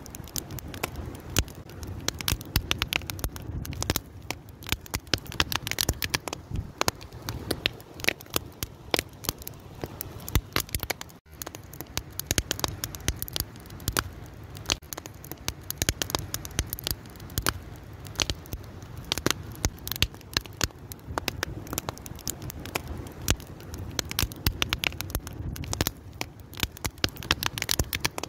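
Wood fire crackling and popping with dense, irregular snaps over a low rumble of flames, with a split-second gap about eleven seconds in.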